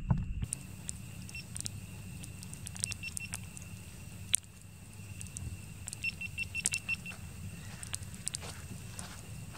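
Campfire wood crackling, with scattered sharp pops over a steady low hum. A few short high pips come in twice, near the middle and again a couple of seconds later.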